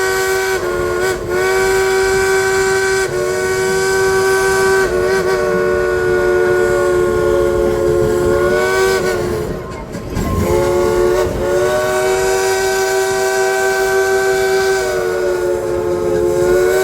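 The whistle of a Baldwin steam locomotive, blown by the engineer as a tune in long blasts. It sounds a chord of several tones together, stepping between pitches and bending as each blast tails off, with a brief break about ten seconds in.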